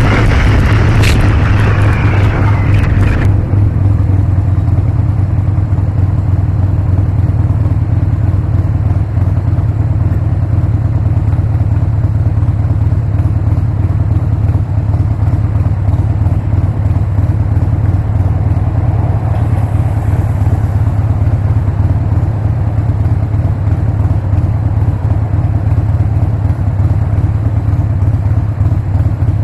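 Harley-Davidson Sportster's air-cooled V-twin engine running steadily while riding. A louder rushing noise sits over the first three seconds or so and cuts off suddenly.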